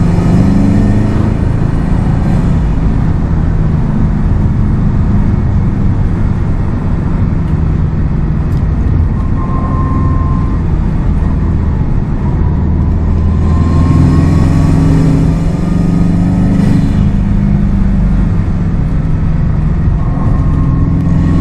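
Subaru WRX STI's turbocharged flat-four engine and exhaust running on the move, the revs rising and falling as it drives, with the loudest pull about two-thirds of the way through. Road and tyre noise sit underneath.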